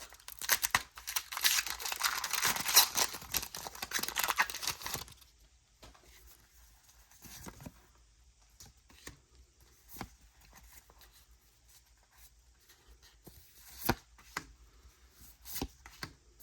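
A foil Pokémon booster pack wrapper being torn open and crinkled for about five seconds, then quiet with scattered light clicks and taps as the cards are handled.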